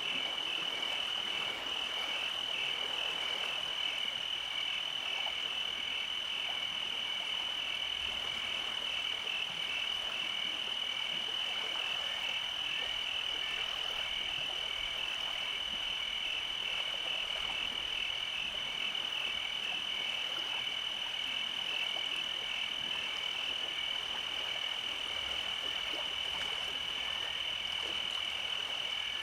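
Night chorus of frogs and insects: a steady high trill with an evenly pulsing chirp of about two a second beneath it, over a dense background of calls.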